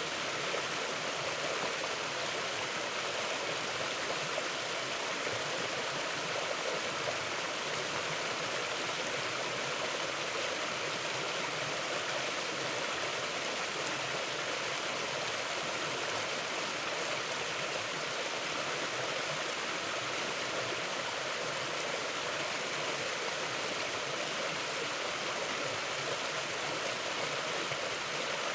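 Mountain river flowing, a steady, even rush of water over rocks.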